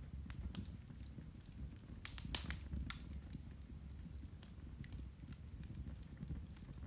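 Turf (peat) fire burning, with scattered sharp crackles and pops over a low steady rumble; a cluster of louder pops comes about two seconds in.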